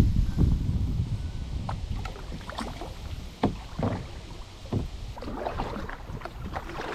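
Kayak paddle strokes: the blade dipping and pulling through shallow creek water with splashes and drips, and a few sharp knocks spaced through the stroke. A low rumble in the first second, with denser splashing near the end.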